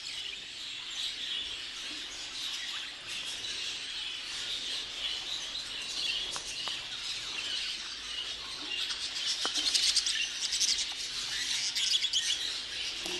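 Budgerigars chattering and chirping in a continuous twittering warble, getting busier and louder from about nine seconds in.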